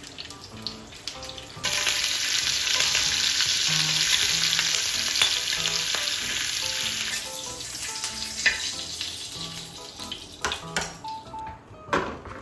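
Food sizzling in a hot frying pan. The sizzle starts suddenly about two seconds in, as if the food has just gone into the pan, and slowly fades over the next several seconds, with a few light clicks near the end.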